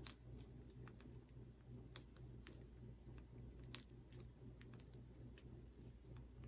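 Near silence: a low steady hum with faint, irregular small clicks, about one or two a second, typical of quiet handwork.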